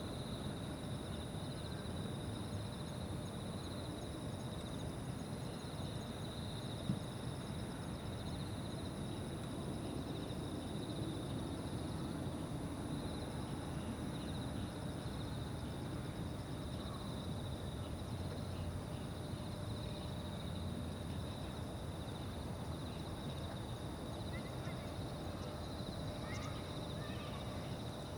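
Evening riverside ambience: insects chirring steadily in continuous high-pitched trills over a low, distant rumble. A single brief knock about seven seconds in.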